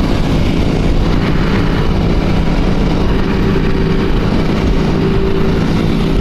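Motorcycle engines running steadily in a large group ride, a continuous loud engine hum with no let-up.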